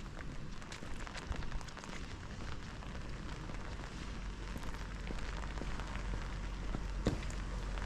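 Steady rain, with scattered drops ticking close by and one sharper tick near the end.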